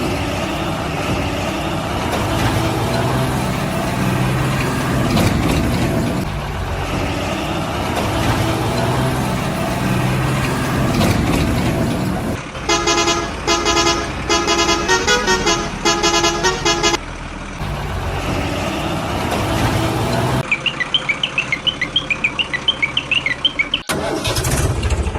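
Truck engine running steadily. About halfway through, a pulsing horn with several tones sounds for a few seconds, its notes changing pitch like a tune. It is followed by a quick run of high chirping beeps and a fast rattle near the end.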